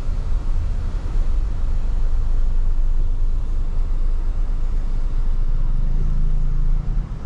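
Car on the move, a steady low road and engine rumble; about six seconds in, a low engine note rises out of the rumble for a second or so.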